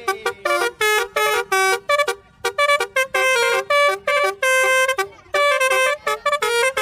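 Basuri telolet bus horn playing a tune: a quick run of short, clipped horn notes stepping between a few pitches, with one longer held note about four and a half seconds in.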